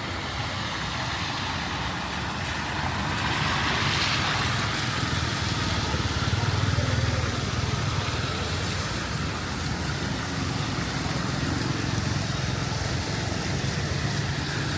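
Street traffic: vehicles passing over a steady hiss and low engine rumble, with a louder rush about four seconds in and the rumble swelling a few seconds later.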